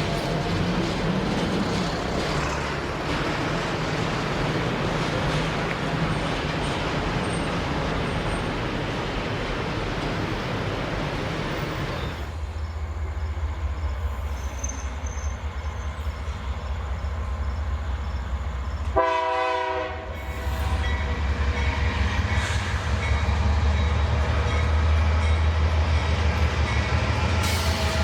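Freight train wagons rolling past on the rails, then a diesel-electric freight locomotive's deep engine rumble with one short horn blast about two-thirds of the way through, the engine running louder after it.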